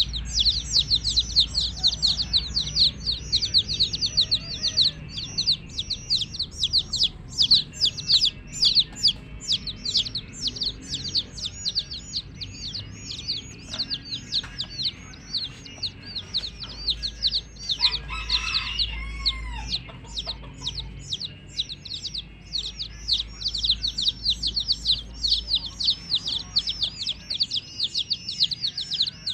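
A group of baby chicks peeping continuously, with many rapid high-pitched peeps overlapping several times a second. About 18 seconds in, a lower, longer call sounds over them.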